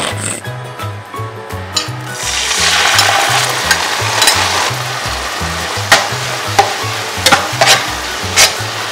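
Chopped chilies and garlic sizzling in a stainless steel frying pan, the sizzle rising about two seconds in, while a spatula stirs and knocks against the pan in several sharp clicks near the end. Background music with a steady bass line plays underneath.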